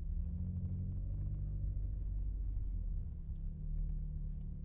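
Renault Megane RS Trophy's turbocharged four-cylinder engine and exhaust running under load from inside the car, a steady low rumble that eases off briefly about three seconds in and then picks up again.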